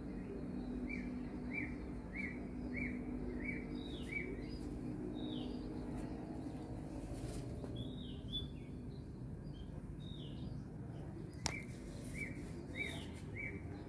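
Small birds chirping: one repeats a short, even chirp about every half second, a run of six in the first few seconds and another run near the end, while other higher, falling chirps come in between. A low steady hum sits underneath, and there is one sharp click about eleven and a half seconds in.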